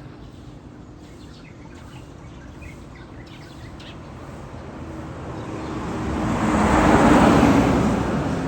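Birds chirping during the first few seconds, then a motor vehicle passes by, its engine and road noise swelling to a peak about seven seconds in and fading away.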